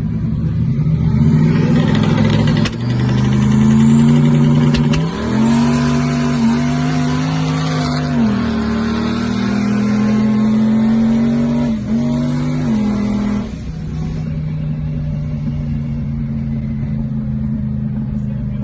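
Turbocharged 2JZ inline-six in a Nissan 240SX under hard acceleration, revving up through the gears with brief breaks in the sound at each shift, then easing off to a lower steady drone about 13 seconds in.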